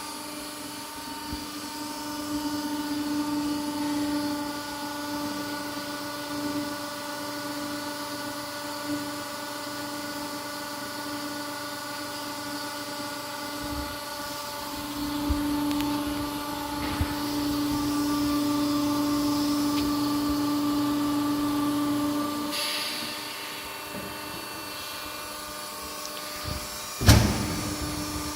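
Colly 350-ton hydraulic straightening press running, its pump humming steadily and growing louder twice as it works under load. A short hiss comes about twenty-two seconds in, and a single sharp bang a second or so before the end.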